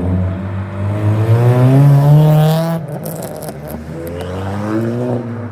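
A car engine accelerating hard, rising in pitch to a peak, cutting back sharply a little under three seconds in, then climbing again.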